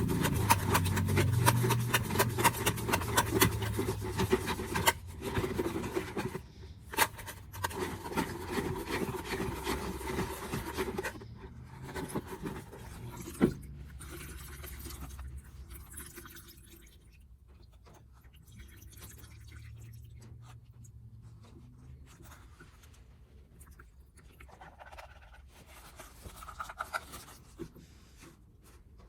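Rapid scraping and rubbing strokes on the gramophone's motor-board parts, dense and brisk for the first ten seconds or so, then thinning to quieter, intermittent rubbing.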